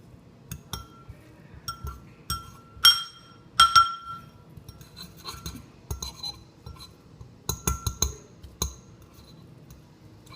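A utensil clinking against a bowl while a cooked egg is broken up into small pieces, about a dozen irregular ringing clinks, the loudest about three and four seconds in.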